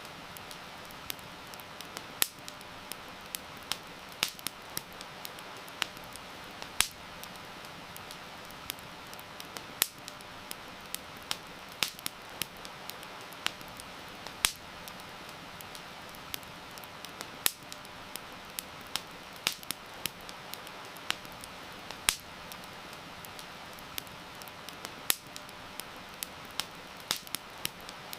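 Wood fire crackling, with sharp irregular pops and snaps several times a second over a steady hiss of rain.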